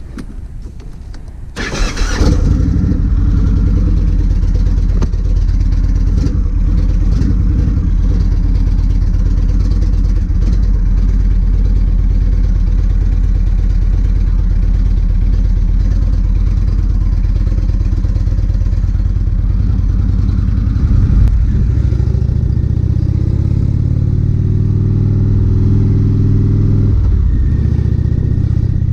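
Motorcycle engine starting with a sudden burst about two seconds in, then running steadily. Near the end it pulls away, rising in pitch, with a gear change shortly before the end.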